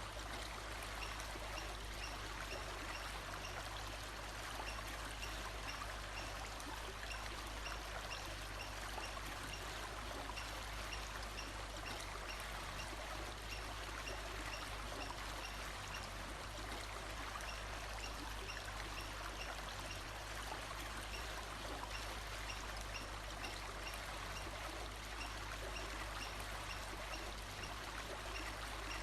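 Steady running water of a stream, with a faint high chirp repeating at an even pace.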